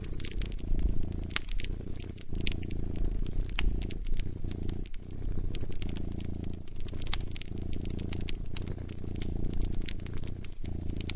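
Cat purring in a steady low rumble that breaks briefly every second or two, with a wood fire crackling over it in many sharp, scattered pops.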